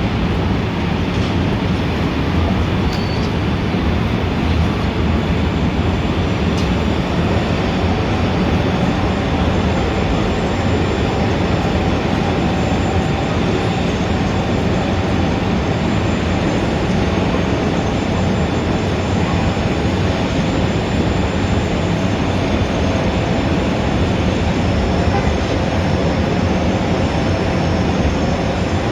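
Steady, dense rumble of heavy city street traffic, with faint high steady tones joining about eight seconds in.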